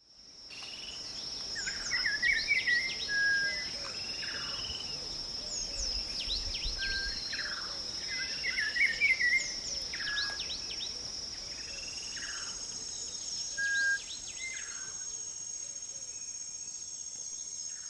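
An insect trilling on one steady high pitch, with birds calling over it: short chirps and sweeping whistles, one phrase recurring about every three seconds. Fades in at the start.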